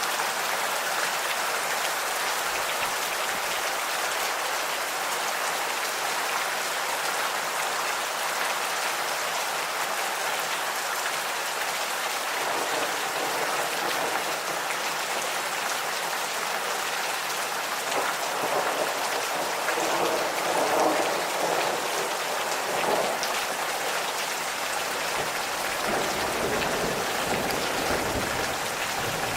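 Steady gentle rain pattering on surfaces. Low rumbles of light thunder swell in the middle and again near the end.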